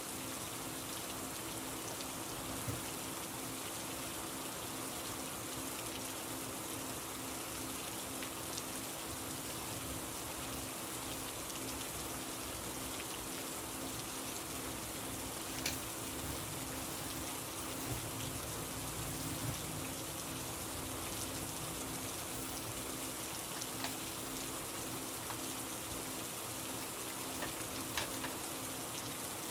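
Steady rain falling on a surface, with a few sharper drop ticks now and then.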